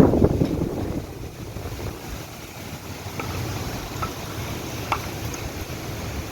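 Gusty storm wind buffeting the microphone, a low rumbling rush that swells and eases, strongest at the start, with a few faint ticks.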